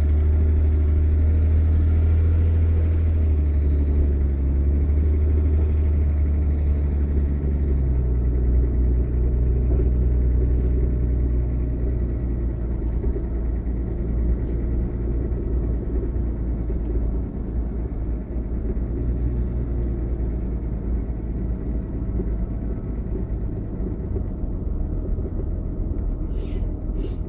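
Vehicle engine and road noise heard from inside the cab while driving: a steady low drone that eases slightly after about eight seconds, with a few short clicks near the end.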